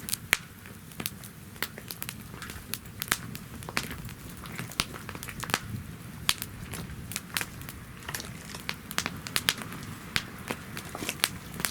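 Wood fire burning in a fire-pit stand, crackling with frequent sharp, irregular pops over a low steady rumble.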